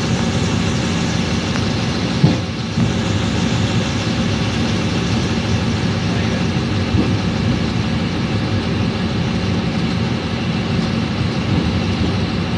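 Train running along the track, heard from on board: a steady running noise with a single sharp knock a little over two seconds in.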